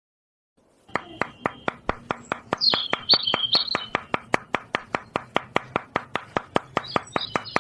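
Small motorised mechanism starting about a second in and clicking steadily, about four to five sharp clicks a second over a low hum, with brief high squeaks twice.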